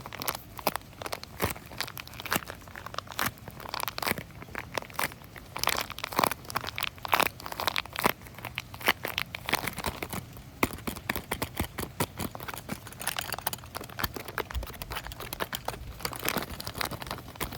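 Fingers crinkling and scratching at a crinkly material close to the microphone: a dense, irregular run of crackles and rustles.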